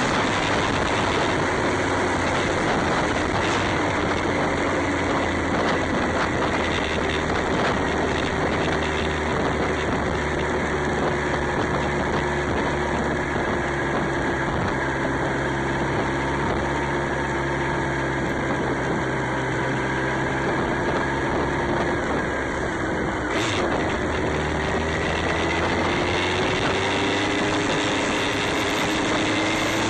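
Motorcycle engine running steadily under a constant rush of wind noise. The engine pitch sags slowly, then rises over the last few seconds as the bike speeds up.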